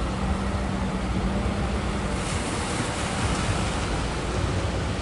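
Ocean surf breaking steadily at a river mouth, a dense rush of water noise, with wind on the microphone.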